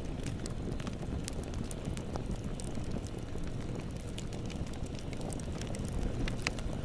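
Bonfire crackling and popping over a low, steady rumble of burning, with a cluster of sharper pops about six seconds in.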